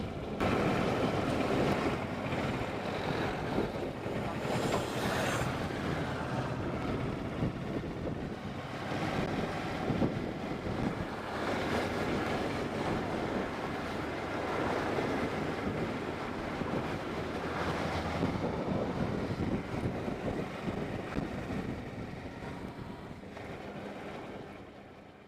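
Motorcycle riding along, its engine running under heavy wind rush on the helmet microphone. The sound fades out near the end.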